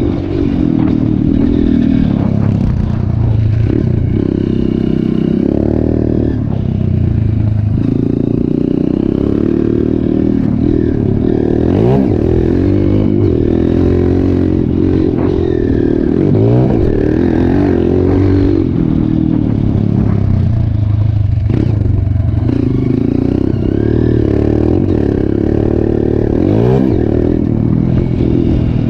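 Trail motorcycle engine running under way, the revs rising and falling again and again as the rider opens and closes the throttle.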